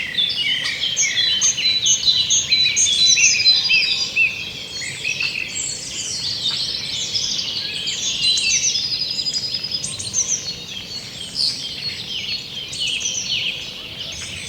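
A chorus of many songbirds singing at once: dense overlapping chirps, trills and whistles, high-pitched, with no pause.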